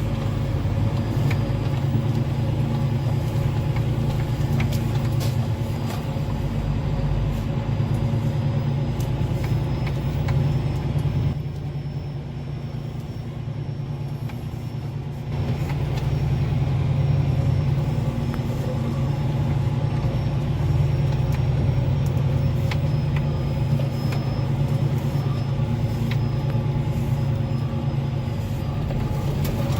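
Semi truck on the road: a steady low engine and road drone that eases off for a few seconds near the middle, then comes back up.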